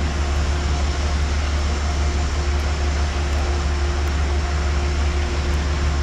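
Steady low rumble of a train, with a faint constant hum over it.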